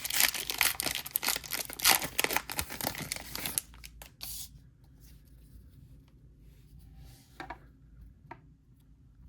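A baseball card pack's wrapper being torn open and crinkled for about three and a half seconds, then quieter handling of the cards with a few light clicks.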